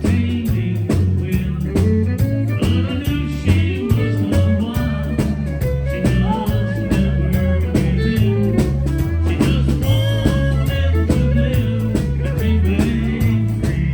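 A live country band playing a song: an electric bass line and drums keep a steady beat, with fiddle and electric lead guitar on top.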